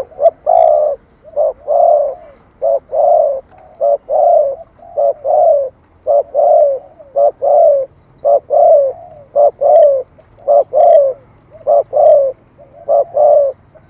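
Spotted dove cooing over and over in the low 'gù' courtship coo: each phrase is a short note followed by a longer coo, repeated about once a second.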